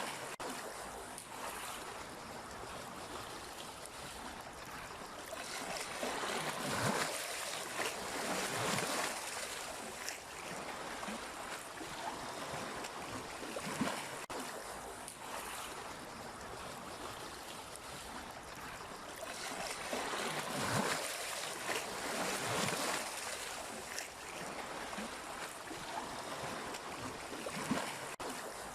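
Sea waves breaking and washing on the shore in a steady rush of surf, with several louder swells every few seconds.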